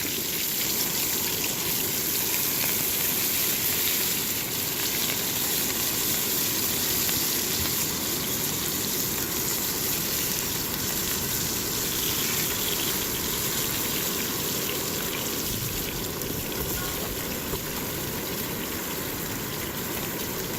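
Marinated beef back ribs sizzling in a cast-iron frying pan over a campfire: a steady, even hiss that does not let up.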